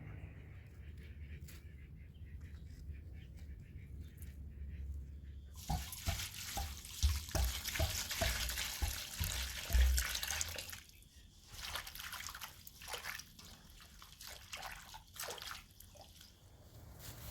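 Water running from a tap for about five seconds, starting about five seconds in, with knocks and clatter while it runs; scattered light clicks and taps before and after.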